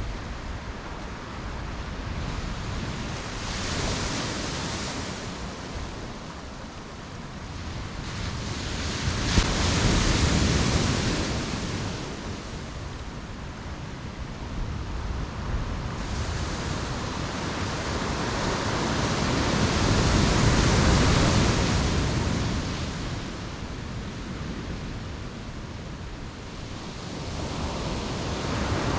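Ocean waves breaking on a beach, the surf swelling and falling back every several seconds, loudest about ten seconds in and again around twenty seconds.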